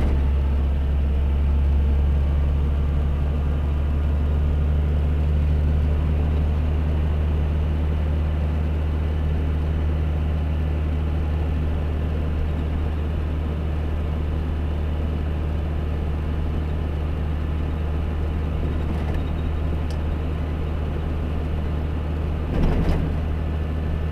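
Truck engine and road noise as a steady low drone while driving, with a short louder rattle or knock near the end.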